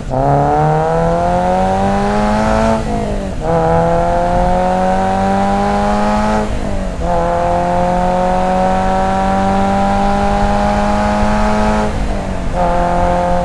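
A 2022 Subaru BRZ's 2.4-litre flat-four, fitted with an equal-length catted header, a catless front pipe and an MRT axle-back muffler, accelerating through the gears. The revs climb in each gear and drop at upshifts about three and seven seconds in. They then hold nearly steady, with another shift near the end.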